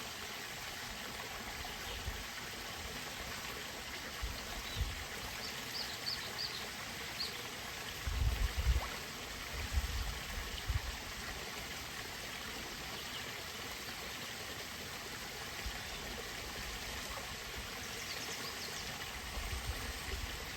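Steady trickling, running water flowing without a break, with a few short low rumbles about eight to eleven seconds in and again near the end, and faint high chirps now and then.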